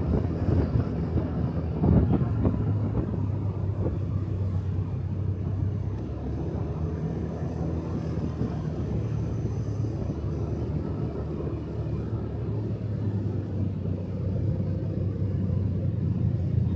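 Motorcycle engine running at a steady cruise, heard from the rider's seat with road noise. There are a couple of sharp thumps in the first two seconds.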